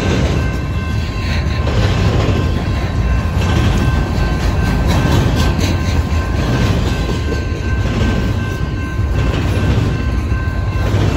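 Double-stack intermodal train's well cars rolling past: a steady rumble and clatter of steel wheels over the rails, with a faint thin steady ring above it.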